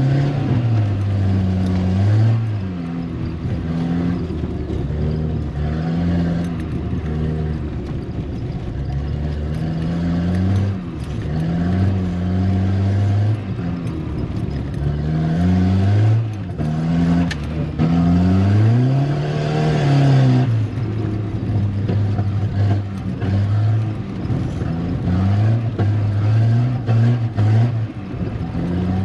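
Volvo 740 Turbo's turbocharged four-cylinder engine revving up and down over and over as the throttle is worked and gears change. About two-thirds of the way through there is one longer climb in pitch that drops away suddenly.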